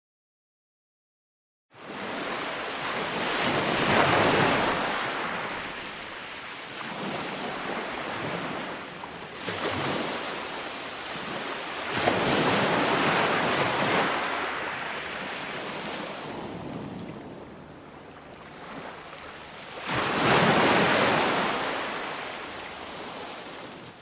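Ocean waves breaking and washing ashore. The sound starts abruptly after about two seconds of silence, then swells and falls as each wave comes in, with three big breaks several seconds apart and a smaller one between them. It cuts off suddenly at the end.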